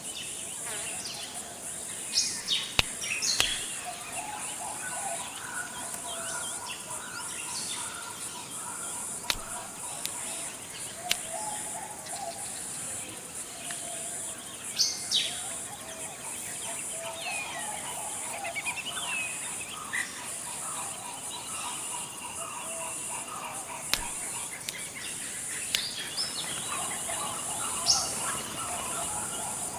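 Tropical forest ambience: assorted birds chirping and calling at intervals over a steady high insect drone. A few sharper, louder chirps come about two seconds in, around the middle and near the end.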